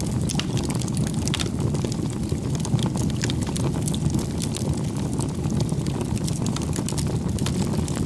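Wood campfire burning: a steady low rumble of flames with frequent sharp crackles and pops.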